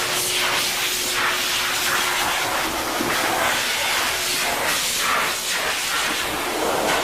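High-velocity pet dryer blowing steadily, a loud hissing rush of air with a faint motor tone underneath, the sound shifting as the stream moves over the dog's coat.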